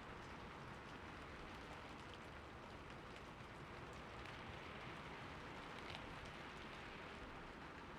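Steady rainfall, an even hiss of rain with faint individual drops ticking through it.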